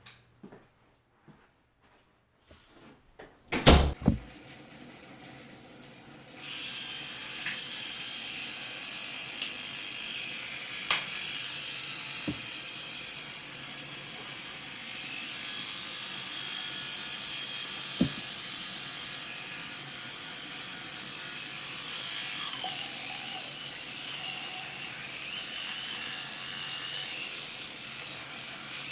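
A loud sharp knock about four seconds in, then water running steadily from a tap, with a few small clicks and knocks over the flow.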